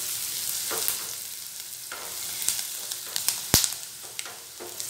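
Chopped onion and green chillies sizzling in oil and butter in a non-stick kadai, stirred with a silicone spatula: a steady frying hiss with a few light scrapes and one sharp click about three and a half seconds in.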